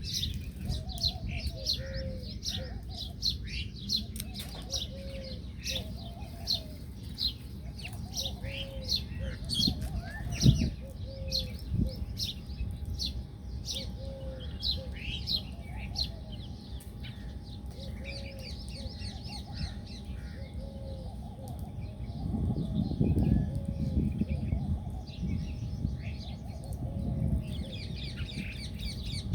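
A flock of small birds chirping busily in quick, falling notes, with a lower short call repeating about every one and a half seconds. There is a single sharp knock about ten seconds in.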